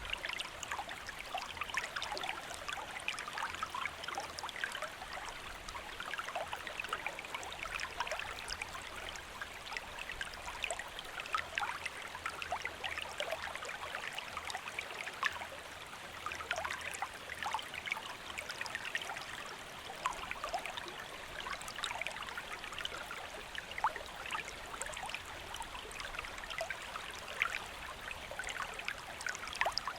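Small stream flowing steadily: a continuous babble of many small trickles and splashes.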